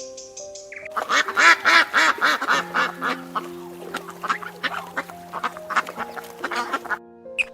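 Duck quacking in a fast run of harsh, repeated quacks, starting about a second in and stopping shortly before the end, over background music.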